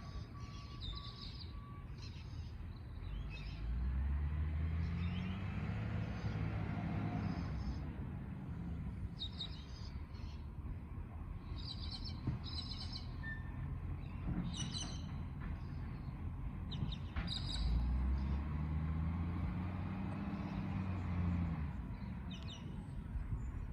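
Garbage truck engine revving up and settling back twice, each time for a few seconds, with birds chirping throughout.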